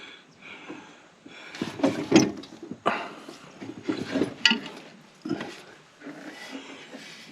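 Irregular handling noises: a handful of sharp knocks and clicks with rubbing and rustling in between, the loudest about two seconds in and again past the middle.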